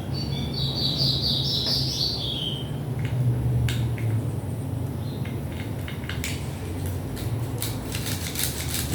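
A bird chirping in a quick chattering run for about two and a half seconds. It is followed by a string of light clicks and taps from small parts being handled, thickening near the end.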